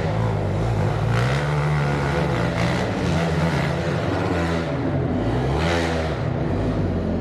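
Dirt bike engine being ridden hard, its pitch rising and falling again and again as the throttle opens and closes.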